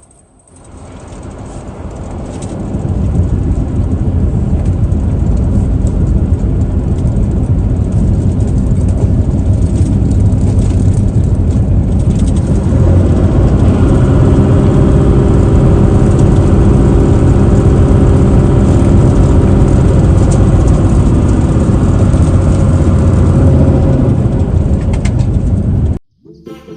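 Truck engine pulling away and building up over the first few seconds, then running steady and loud with a low drone that gains a clear pitched note about halfway through. It cuts off suddenly near the end.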